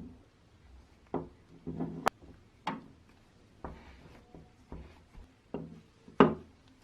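A series of irregular knocks and clacks of objects being handled and set down, about eight in all, with a sharp click about two seconds in and the loudest knock near the end.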